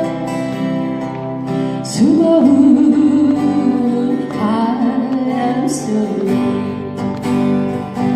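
Live song with strummed acoustic guitars and a singer holding long notes with vibrato, the voice coming in strongly about two seconds in.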